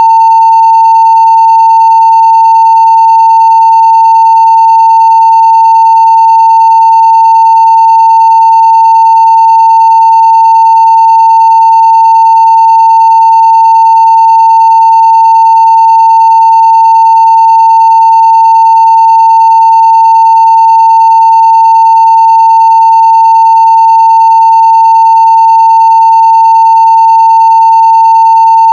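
Continuous 900 Hz sine-wave test tone at full scale (0 dB): one steady, unwavering pitch with faint higher overtones.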